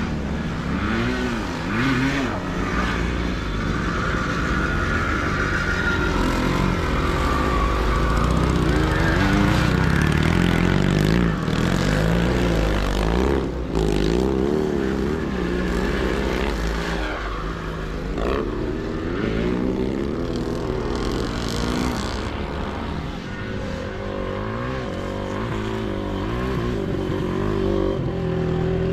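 Motocross motorcycles with sidecars racing, their engines revving up and down as the riders open and close the throttle. Several engines overlap.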